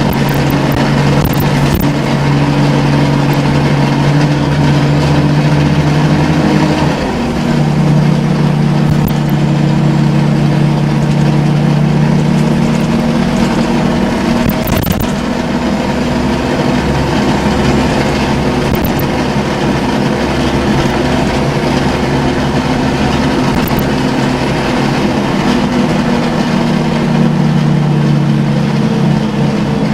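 Scania L94UB CNG city bus with a ZF five-speed gearbox, its engine running with a steady droning tone that shifts in pitch about seven seconds in. The uploader calls it one of the worst-sounding buses and does not know what is wrong with it.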